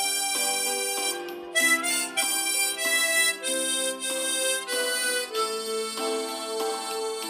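Harmonica playing a slow melody in held notes over sustained lower notes, ending on a long held note for the last two seconds or so.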